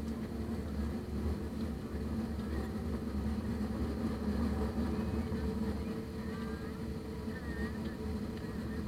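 Steady drone inside the cabin of an Airbus A320, the engines and air system humming at a constant pitch with no clear changes.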